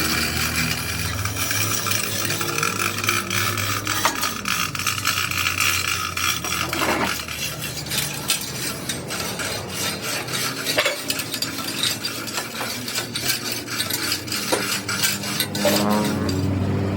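Metalworking noise: dense, continuous crackling and scraping of metal, over a low steady hum.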